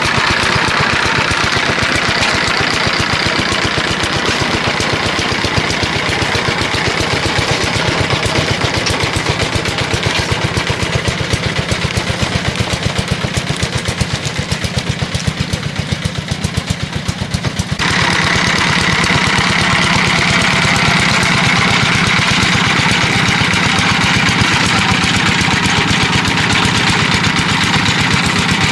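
Engine running steadily with a fast, even firing rhythm. About eighteen seconds in the sound changes abruptly, gaining a brighter, higher-pitched layer.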